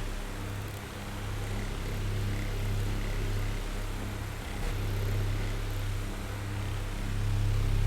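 Oscillating electric fan running: a low motor hum with a soft rush of air. The level drops at the start, wavers lower, then swells back near the end.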